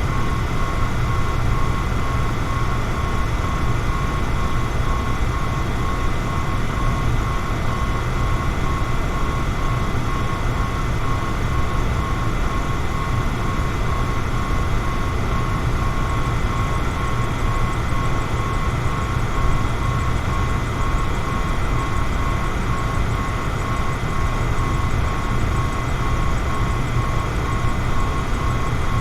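Electric fan running steadily: an even rush of air with a strong low rumble and a faint, steady high whine.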